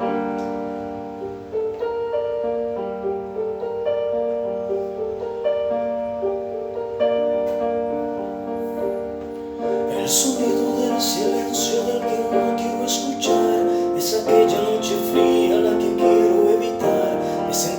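Piano playing the slow introduction of a ballad in sustained chords, with percussion coming in on a steady beat about ten seconds in.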